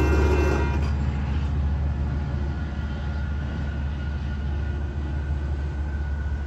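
Metra commuter train running away down the track: a low steady rumble, with a high ringing and louder mid-range sound that cut off about a second in, leaving a quieter rumble.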